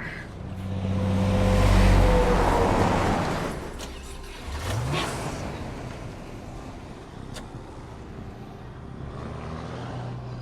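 A motor vehicle passing by: its engine sound swells to a peak about two seconds in and fades away with a slight drop in pitch. A shorter engine sound rising in pitch follows about five seconds in.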